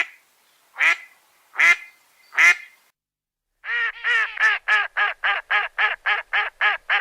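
Duck quacking: four single quacks a little under a second apart, then, from about three and a half seconds in, a fast run of quacks at about four a second.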